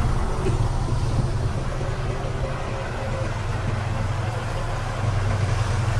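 Diesel engine of heavy construction equipment running steadily with a low hum, easing off slightly and then picking up again about five seconds in.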